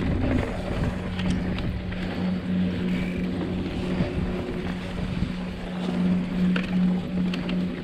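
Mountain bike ridden along a dirt trail: tyre and drivetrain noise with a steady buzzing hum, and wind on the microphone.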